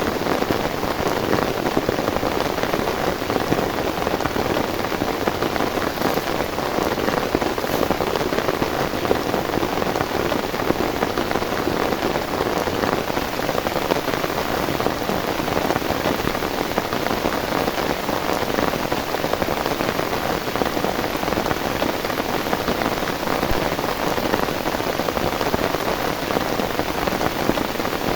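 Heavy rain falling steadily, a dense even hiss of drops on a surface with no let-up.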